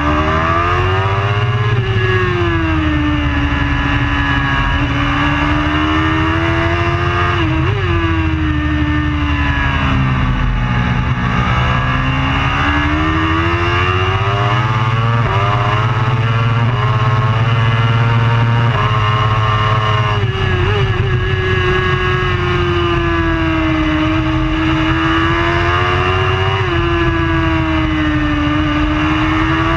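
Superbike racing motorcycle engine running hard without a break, its pitch rising and falling every few seconds as it accelerates and slows, with brief sharp blips about a third of the way in and again later.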